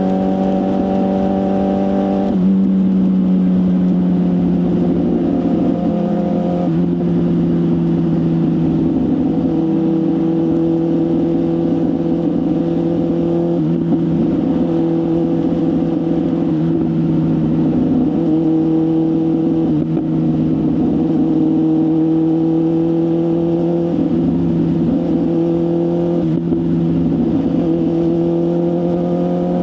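BMW S1000RR inline-four sports bike engine with a full exhaust system, running on the move. Its note holds fairly steady with slow rises, and the pitch steps suddenly a few times, first a couple of seconds in.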